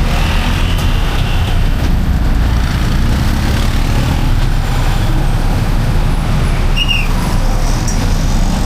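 Steady loud low rumble, with a short high chirp about seven seconds in.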